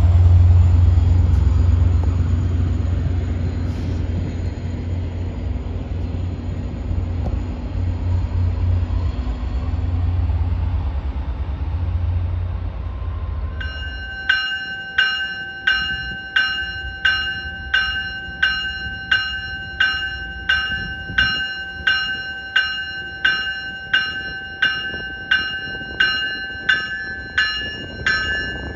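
An MBTA EMD F40PH-3C diesel locomotive's engine gives a deep rumble that fades over the first dozen or so seconds as it passes. About halfway through a train bell starts ringing steadily, about one and a half strikes a second: a commuter cab car's warning bell as the train readies to move off.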